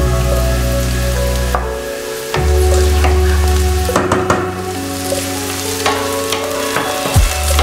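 Vegetables sizzling as they fry, with a wooden spoon stirring and clicking against a steel pot. Background music with sustained bass notes plays underneath.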